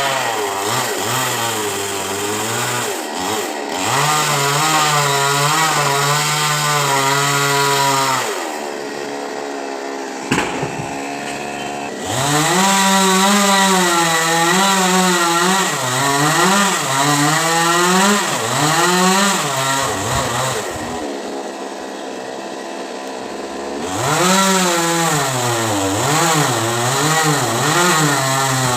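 Chainsaw cutting into a coconut tree, the engine pitch rising and falling as it works under load. Twice it eases back to a lower, quieter running, first about a third of the way in and again past two-thirds.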